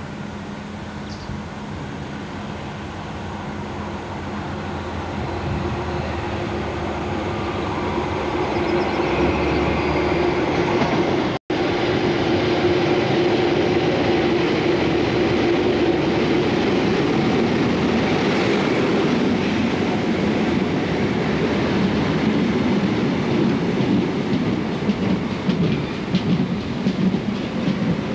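InterCity 125 High Speed Train, its Class 43 power car's Paxman Valenta diesel, approaching and running into the station, growing louder for about ten seconds. The power car and coaches then pass close by, with wheels clicking over rail joints near the end as the train slows. The sound drops out for a split second about eleven seconds in.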